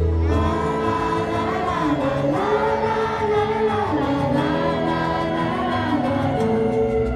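Large crowd singing along together to a pop song played over loudspeakers, many voices in unison over the backing track, with the heavy bass dropped out.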